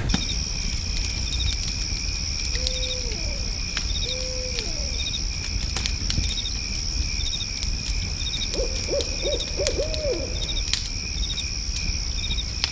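Owl hooting: two drawn-out hoots a few seconds in, then a quick run of about six short hoots near the end. Behind it runs a steady high-pitched insect-like drone with a short chirp about once a second.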